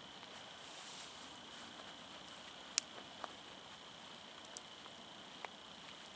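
Firewood campfire crackling quietly, with a few scattered sharp pops, the loudest about three seconds in, over a faint steady hiss.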